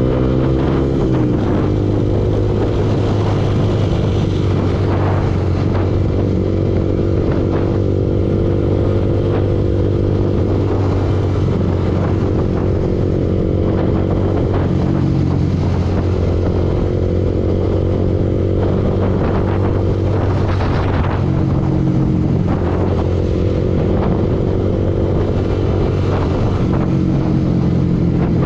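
Yamaha R15 V2 motorcycle's 150 cc single-cylinder four-stroke engine running steadily while riding. Its pitch dips and climbs again a few times with throttle and gear changes.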